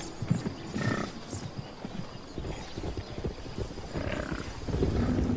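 Bison herd on the move: many dull hoof thuds, with a few short calls about a second in and again near four seconds.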